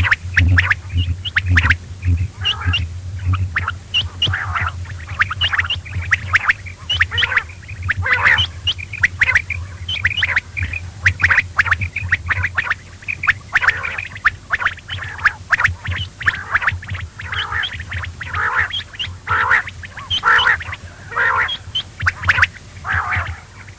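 Quail calling over and over in quick, overlapping bursts. A low hum runs under the calls and stops about halfway through.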